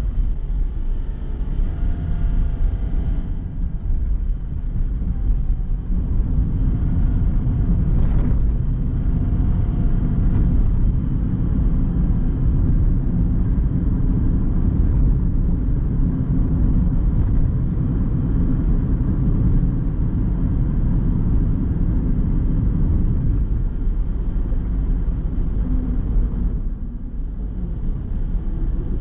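Car driving downhill: a steady low rumble of tyres and engine on the road.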